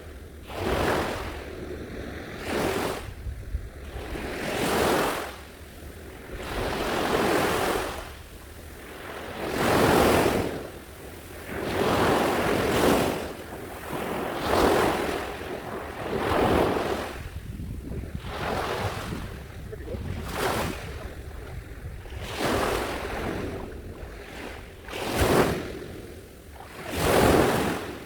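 Sea surf: small waves breaking and washing up the shore, a new swell every two seconds or so.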